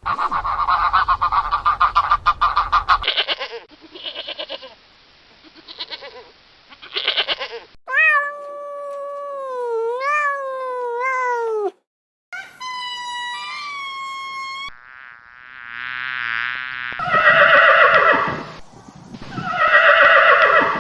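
A series of short animal calls, one after another with abrupt cuts: a rapid pulsing buzz at first, then pitched calls that glide up and down, and two loud calls near the end.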